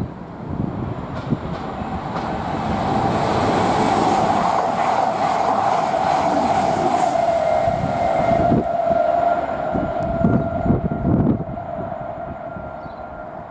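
East Midlands Railway diesel multiple-unit express passing through the station at speed without stopping. The rush builds, holds for several seconds as the coaches go by, then fades, with a steady high whine over it.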